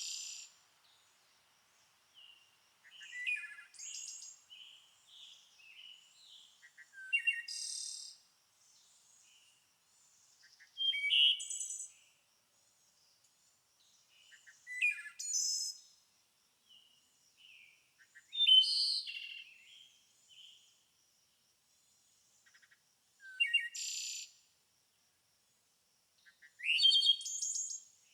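A songbird singing short, varied, high-pitched phrases of about a second each, repeated every three to four seconds, with fainter chirps in between.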